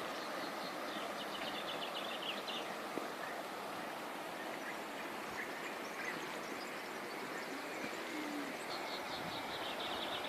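Small songbirds singing rapid, high trills of repeated chirps, one burst about a second in and another near the end, over a steady rushing noise.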